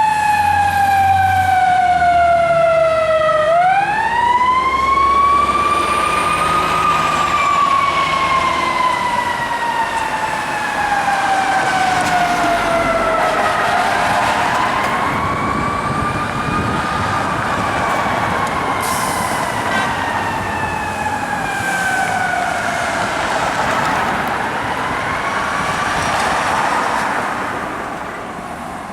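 Fire truck siren wailing slowly: the pitch winds up over a few seconds, then slides down over six to seven seconds, and this rises and falls three times. It fades near the end.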